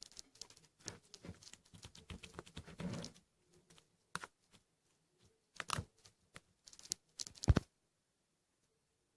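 Slime being squished and poked by hand, giving a quick run of crackly clicks and pops for about three seconds, then a few separate pops, before stopping near the end.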